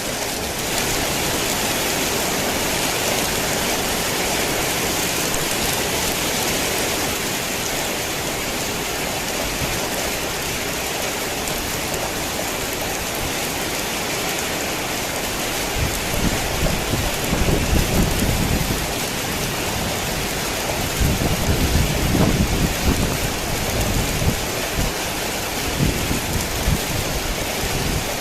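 Heavy, steady rain. Low rumbles of thunder come in a little over halfway through, then again a few seconds later.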